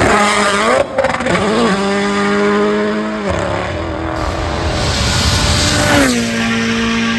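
Rally car engines revving hard at full throttle, pitch climbing and then dropping off as the driver lifts, in short clips cut abruptly one after another.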